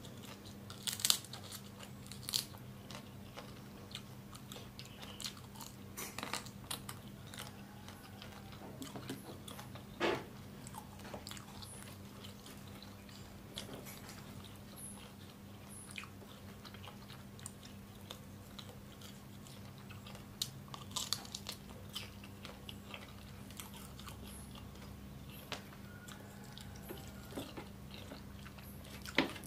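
Close-up chewing and crunching of cooked rhino beetles, their hard shells cracking in scattered crisp crunches between quieter chewing. A steady low hum runs underneath.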